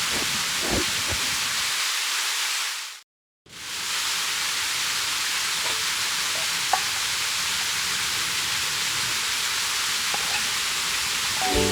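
Steady rushing of a mountain stream, an even hiss of water that briefly cuts out about three seconds in.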